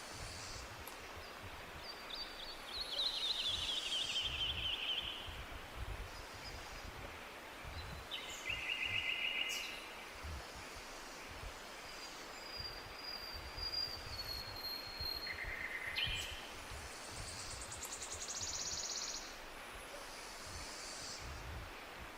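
Forest songbirds singing in turn: short rapid trills, one falling in pitch, and a thin high drawn-out whistle. Under them runs a steady hiss with a low rumble.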